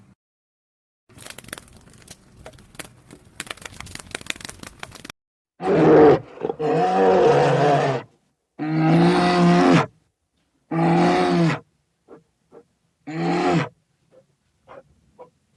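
About four seconds of crackling and clicking, then an animal giving four long, pitched, roar-like calls, each one to two seconds long, the first the loudest.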